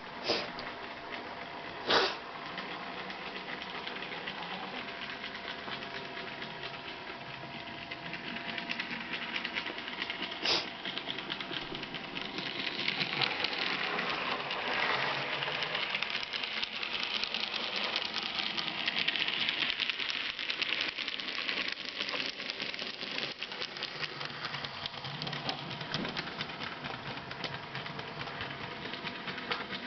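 N gauge model freight train running on the layout, hauled by a Class 37 diesel model: a steady whir of the small motor with rapid clicking of wheels over the track. It grows louder for several seconds around the middle as the train passes close. There are a few sharp clicks near the start and about ten seconds in.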